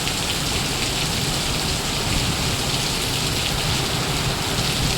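Heavy rain pouring down steadily, a dense even hiss of rain.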